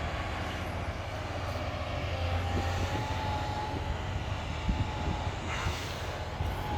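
Diesel engine of a demolition machine running steadily, a low drone with a faint higher whine through the middle and a few light knocks.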